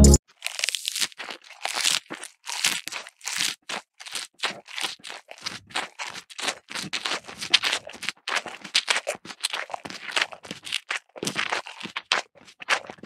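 Crunchy munching of fresh grass being chewed, many quick irregular crunches several a second. It is a chewing sound for cows eating chopped grass.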